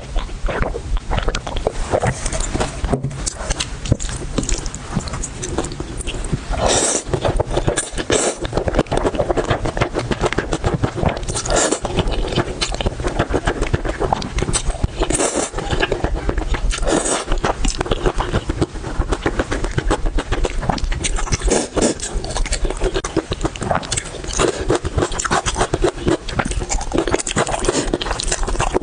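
Close-miked eating sounds: steady chewing with a dense run of small wet clicks and crunches, and a few louder moments.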